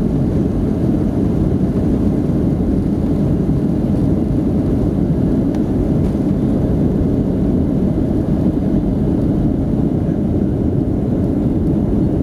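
Steady low rumble of a Boeing 757-200's jet engines and rushing air, heard inside the passenger cabin.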